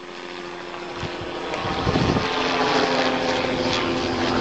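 Low-flying helicopter, its engine and rotor growing steadily louder as it comes directly overhead. The pitch of its engine tone shifts about halfway through.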